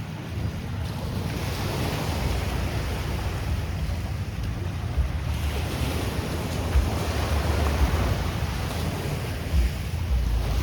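Small sea waves washing onto the beach, swelling and easing, with wind buffeting the microphone in gusts.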